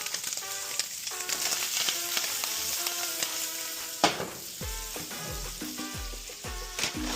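Food frying and sizzling, with background music over it; a deep drum beat comes into the music after a sharp hit about four seconds in.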